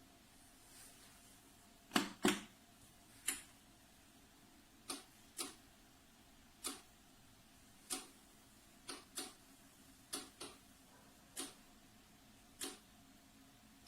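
A series of sharp, short clicks, roughly one a second and unevenly spaced, some coming in close pairs, over a faint steady hum.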